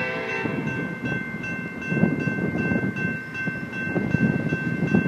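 Distant approaching train, not yet in sight: a low, uneven rumble under a few steady high ringing tones. A horn-like chord fades out just after the start.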